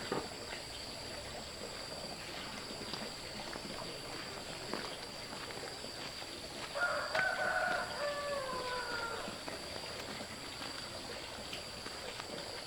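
A rooster crows once, about seven seconds in. It is a single drawn-out crow lasting a couple of seconds, falling in pitch at the end.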